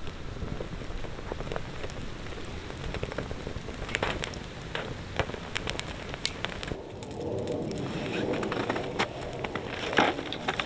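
Wood campfire crackling: sharp pops at irregular spacing over a steady hiss.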